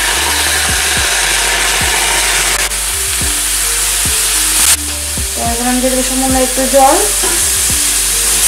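Sliced ash gourd sizzling in hot oil in a metal kadai while a flat metal spatula stirs it. The sizzle is loudest in the first half and eases a little partway through. Background music plays underneath.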